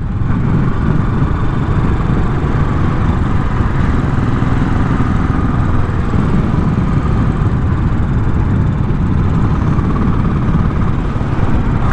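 Custom Royal Enfield scrambler motorcycle running steadily while being ridden on the road, a continuous low engine rumble with road noise.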